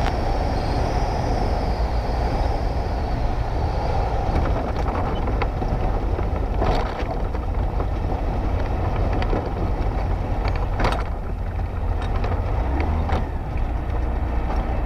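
Light bush plane's engine and propeller running steadily, with a couple of sharp clicks about seven and eleven seconds in.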